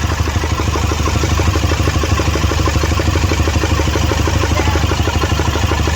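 Toyota Fortuner four-cylinder diesel engine idling roughly with a fast, steady clatter, misfiring hard enough to shake the whole engine. The misfire is traced to faulty injectors whose electrical coils work but whose mechanical parts do not.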